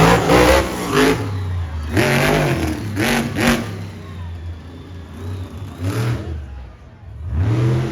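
Monster truck engine revving in repeated sharp throttle blips, its pitch rising and falling with each burst, easing off briefly before it builds again near the end.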